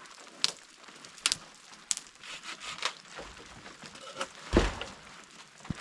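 Firewood and kindling being handled to get a fire going: scattered sharp clicks and knocks with some crinkling, and one heavier thump about four and a half seconds in.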